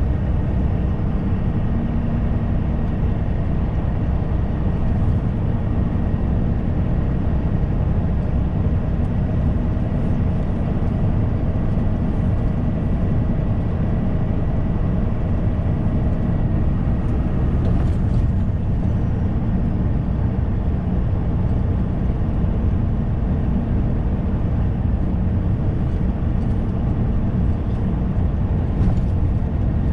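Steady drone of a semi-truck's engine and road noise heard inside the cab while driving, with a faint steady whine above it and a small click about two-thirds of the way in.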